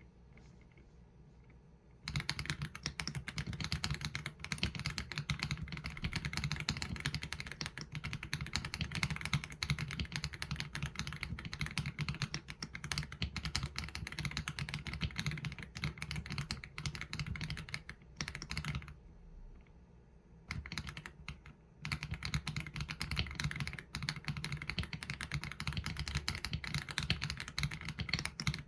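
Mechanical keyboard typing on an AULA F87 Pro fitted with Leobog Graywood V3 linear switches and PBT keycaps: fast, continuous keystrokes with a deep, low clack. The typing starts about two seconds in, pauses briefly a little past the middle, and resumes.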